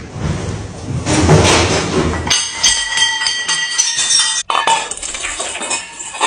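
Clattering and metallic clinking, with a high ringing sound held for about two seconds in the middle that cuts off suddenly.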